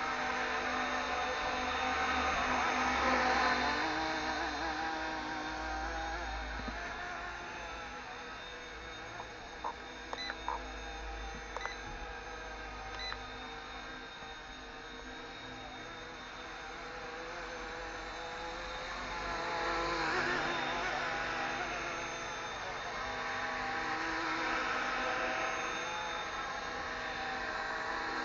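RC ERA C189 MD500 scale RC helicopter in flight: its motor and rotor whine steadily, growing louder and fainter as it moves about. A few short beeps come about a third of the way in.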